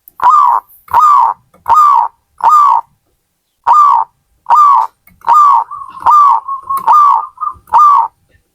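Zebra dove (perkutut) singing: about ten short coos in a steady series, each a quick note that drops slightly in pitch. There is a short pause after the first four, and a rolling trill links the notes in the middle of the song.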